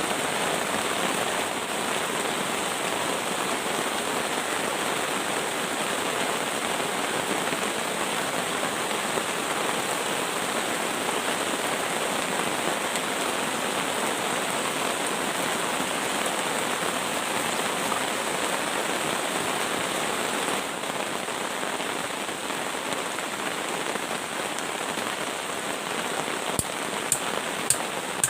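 Heavy rain falling steadily, slightly easing about two-thirds of the way through, with a few sharp ticks near the end.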